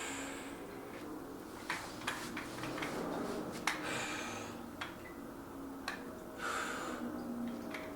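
A man breathing hard from exertion during an exercise set: a loud breath about every two to three seconds, three in all, with a few short sharp clicks in between.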